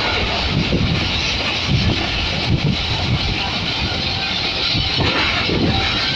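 Passenger train running at speed, heard from an open window of a coach: a steady rush of wind and wheel-on-rail rumble with uneven low knocks.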